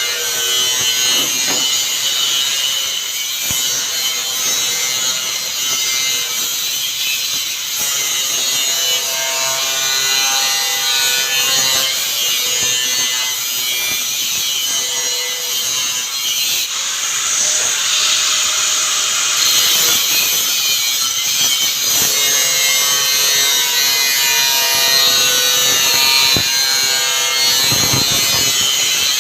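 Power saw cutting steadily and without a break.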